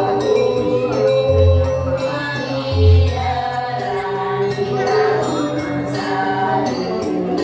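Janger song from an elderly Balinese troupe: several voices singing a sustained melody together over percussion, with deep drum strokes about a second and a half and three seconds in and frequent bright clinking strokes.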